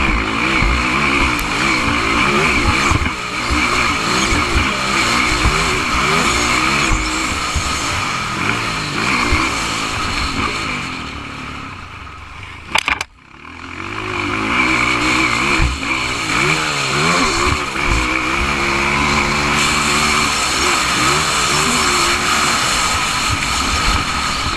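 Motocross motorcycle engines racing, revving up and down over and over. About halfway through the sound fades away, with a sharp click and a brief drop, then the revving builds back up.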